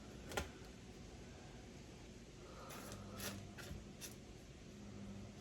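Light clicks and taps of small metal steering-box parts being handled during disassembly: one sharp click about half a second in, then a few fainter taps around three to four seconds in, over a low steady hum.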